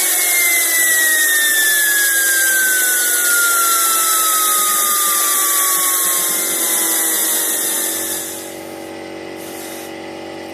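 Homemade propane-fuelled turbojet engine winding down: a loud rush of gas with a whine that falls steadily in pitch as the turbine slows. About eight seconds in the rushing cuts off and only a fainter steady hum is left.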